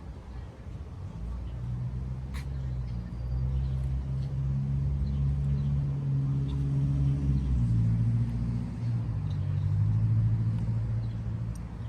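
An engine running with a steady low hum that swells from about a second in and drops slightly in pitch about seven and a half seconds in. There is a single sharp click near the start.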